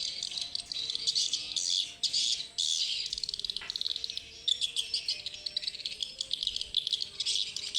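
Swiftlets twittering in a dense, continuous chorus of rapid, high chirps, as they come in to roost at dusk.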